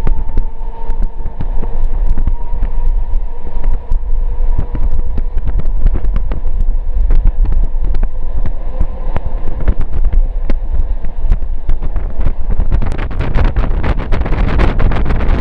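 Passenger train running along the track, heard from a coach window: a heavy continuous rumble of wheels on rails, thick with rattles and clicks, and wind buffeting the microphone. A faint steady hum fades away about nine seconds in, and the rushing noise grows louder near the end.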